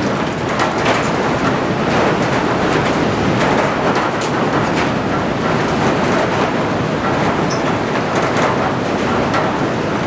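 Storm wind blowing against a barn: a loud, steady rushing, with frequent short knocks and rattles scattered through it.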